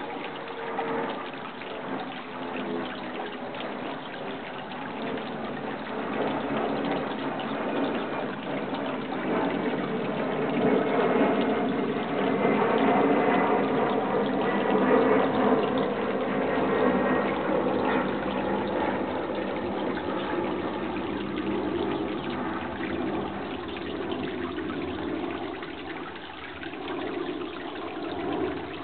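Running water rushing steadily, swelling a little louder about halfway through, then easing.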